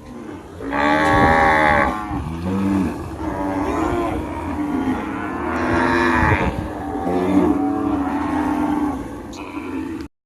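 Cattle mooing: a run of long, overlapping moos, the loudest about a second in, cutting off abruptly near the end.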